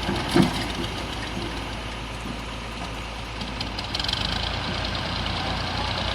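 Diesel engine idling steadily, with one sharp thump about half a second in. About four seconds in the engine gets a little louder and rougher.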